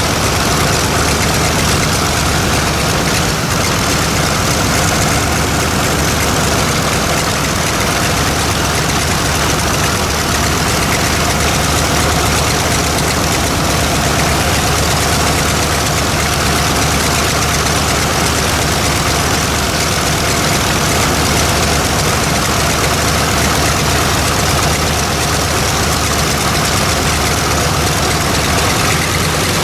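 Nakajima Sakae 14-cylinder radial engine of an A6M5 Zero fighter running steadily at idle.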